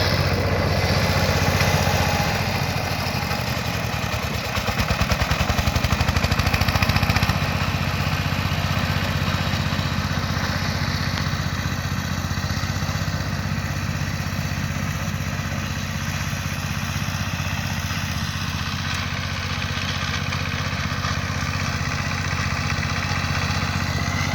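Power tiller's single-cylinder diesel engine running steadily after being repaired and restarted. It gets louder and pulses faster for a few seconds, about four seconds in, then settles back to a steady run.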